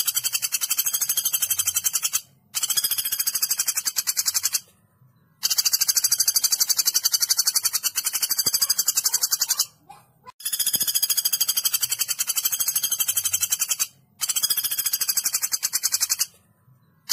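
Woodpecker's call as used for bird-training audio: fast, high-pitched rattling trills in five runs of two to four seconds, each broken by a short pause.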